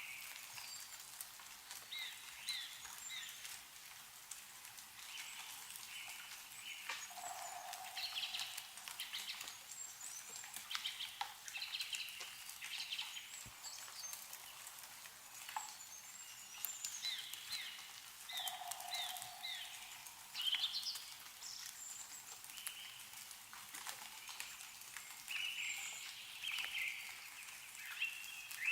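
Several small birds chirping and singing in short, overlapping calls and trills, over a steady hiss of meltwater from snow-laden trees, with scattered single drops ticking down now and then.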